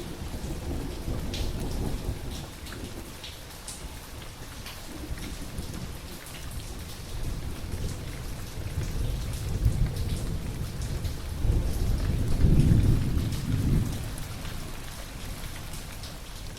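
Steady rain falling, with scattered drops tapping and rolling thunder. The thunder swells near the start and again in the second half, loudest a few seconds before the end.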